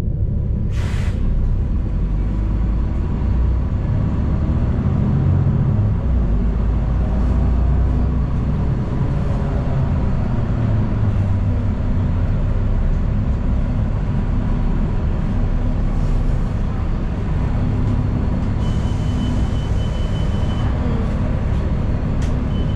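Steady low rumble of a city transit bus in motion, heard from inside the cabin: engine and road noise. About a second in there is a short sharp knock. Near the end a high steady tone sounds twice, the first time together with a hiss.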